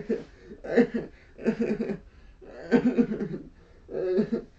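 People laughing in several short bursts of chuckling.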